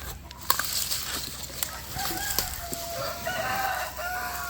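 Chickens, with a rooster crowing in long drawn-out calls from about halfway through, over scattered rustling clicks.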